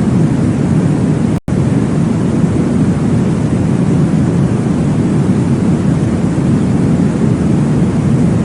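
Steady, deep whooshing womb-sound noise, with no speech or music. It cuts out for a split second about a second and a half in, then carries on unchanged.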